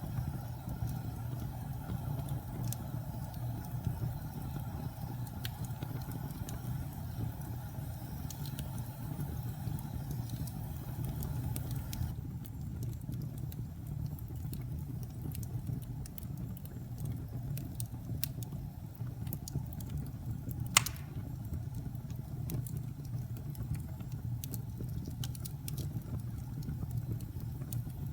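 Fire burning in a fireplace: a steady low rumble with scattered crackles and one loud pop about 21 seconds in.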